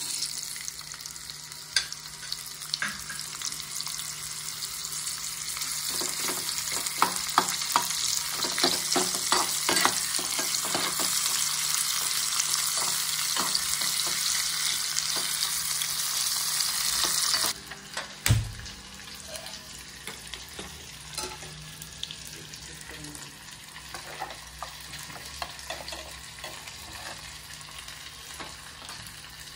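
Food frying in hot oil in a metal kadai, starting with a sudden loud sizzle as it goes into the pan, with a spatula scraping and clinking against the pan as it is stirred. About two thirds of the way through, the sizzle drops sharply and a dull knock follows; then a softer sizzle and occasional stirring go on.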